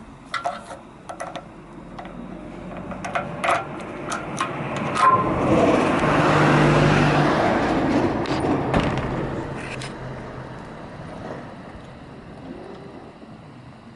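A string of sharp clicks and rattles, then a motor vehicle passing by: a broad noise that swells to a peak about halfway through and fades away over several seconds.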